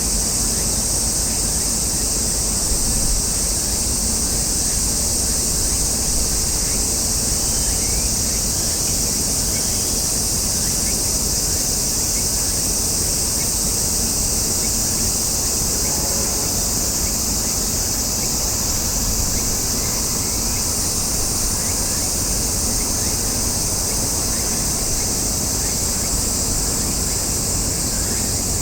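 Steady chorus of summer cicadas, a continuous high-pitched buzz that does not pulse, over a low even rumble.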